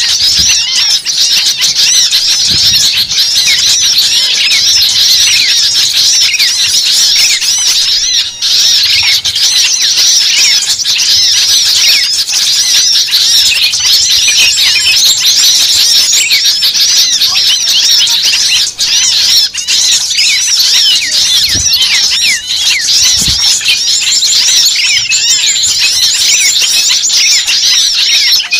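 Bird-lure recording of many small birds calling at once, a noisy agitated chorus: dense, continuous, high-pitched chatter of rapid chirps and squeaks with no break.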